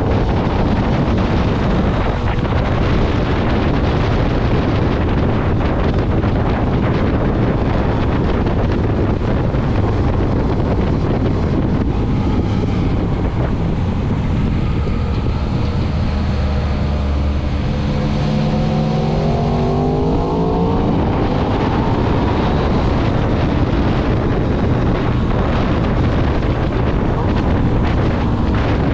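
Motorcycle riding at speed, engine running under heavy wind buffeting on the microphone. Past the middle the engine note climbs steadily in pitch for several seconds as the bike accelerates, then drops away.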